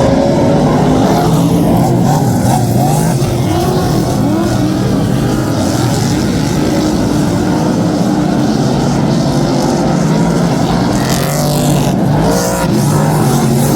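Several superstock race cars' engines running and revving as they lap the speedway, with the pitch rising and falling; one car passes close by near the end.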